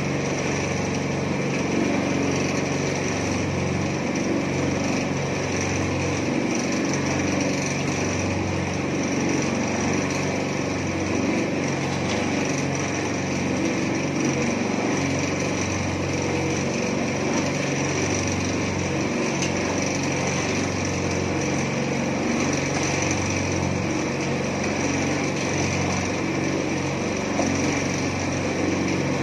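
Small petrol engine of a mini concrete mixer running steadily at a constant speed.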